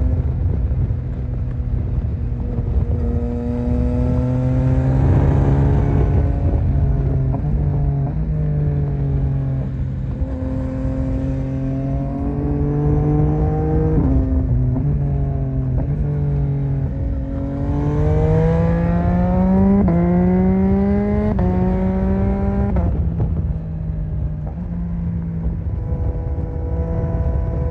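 Yamaha MT-09's three-cylinder engine pulling through the revs while riding, its pitch rising and then dropping sharply at each gear change, several times over. A steady low wind and road rumble runs under it.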